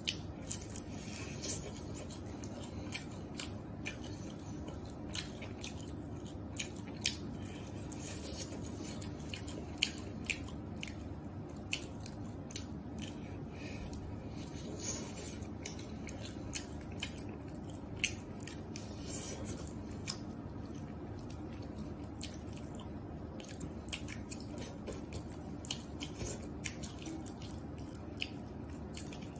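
Close-miked eating: chewing and biting into food, with many short sharp clicks and wet smacks scattered throughout, over a steady background hum.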